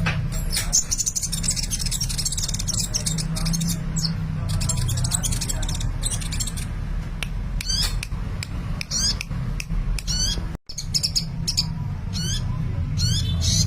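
Sunbird (the Indonesian 'kolibri') singing actively in quick high chirps and sweeping trills, over a steady low hum. The sound cuts out for a split second about two-thirds of the way through.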